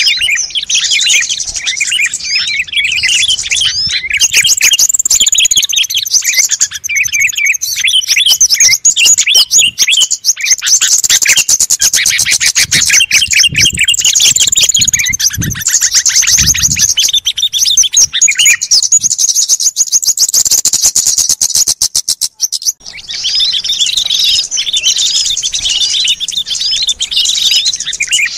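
Dense chorus of many small songbirds chirping and trilling at once, from a bird-lure (pikat) recording made to call in small wild birds. A fast rattling trill runs through the middle, and the sound drops out briefly about 22 seconds in before the chorus starts again.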